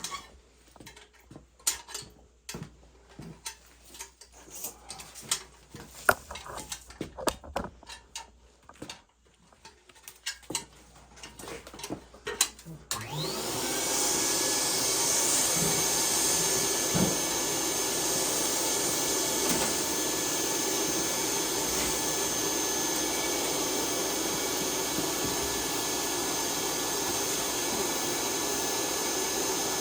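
Light clicks and knocks of tools being handled, then about halfway through a vacuum cleaner is switched on: its motor whines up to speed and runs steadily. This is the cleaning stage of an oil boiler tune-up, taking out soot and ash.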